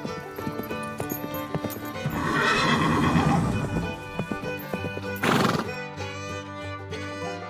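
Horse hooves clip-clopping, then a horse whinnying about two seconds in, with a short, sharp noisy burst a little after five seconds. Steady background music runs underneath.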